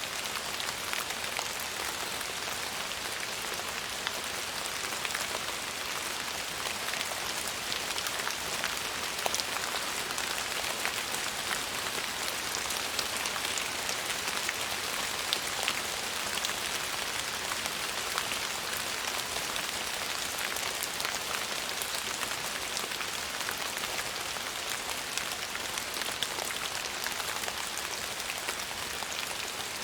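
Steady rain falling on a surface, a dense even hiss with many fine drop ticks throughout.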